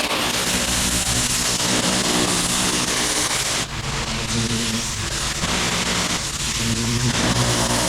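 Gas-engine pressure washer running with the steady hiss of its water spray.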